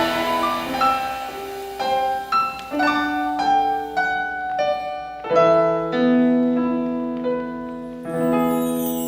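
Piano playing a slow passage of single struck notes and chords, each left to ring and fade before the next.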